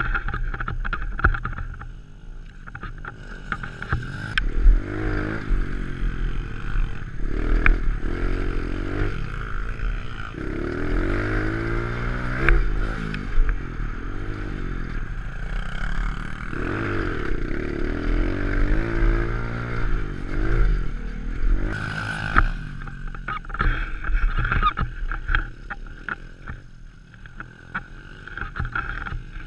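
Pit bike engine revving hard and falling back again and again, its pitch rising and dropping over a steady low rumble, with a couple of sharp knocks.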